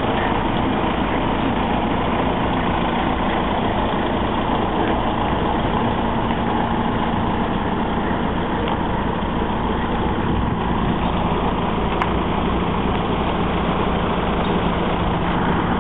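Vehicle engine idling, a steady even rumble with no change in level.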